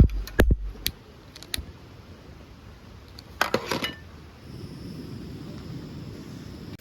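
A few sharp metallic clinks and knocks of small metal objects being handled, in two clusters: one right at the start and one about three and a half seconds in. A steady low rush comes in at about four and a half seconds.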